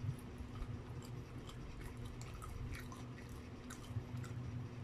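Close-up chewing with small wet mouth clicks and squishes, a person eating soft spaghetti and hotdog. A low steady hum runs underneath.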